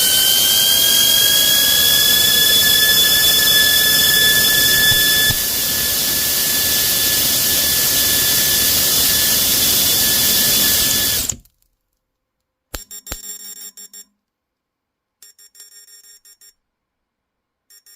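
Brushless DC motor running flat out on overvoltage: a loud rushing noise with a high whine that climbs slightly in pitch, then holds. The motor cuts off suddenly about eleven seconds in, followed by a couple of sharp clicks and a few faint, brief sounds.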